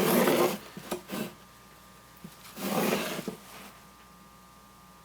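Two short bursts of scrubbing against the canvas, each lasting about a second: one at the start and one about three seconds in.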